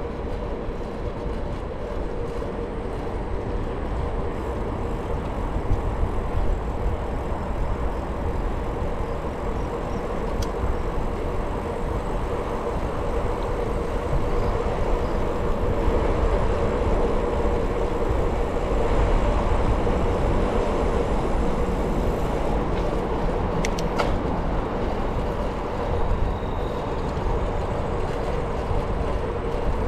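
Steady rolling noise of a bicycle being ridden, with a constant hum and no clear break.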